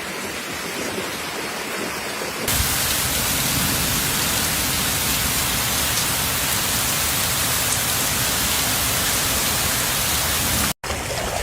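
Heavy rain pouring down, a steady hiss that jumps suddenly louder about two and a half seconds in and cuts out for a moment near the end.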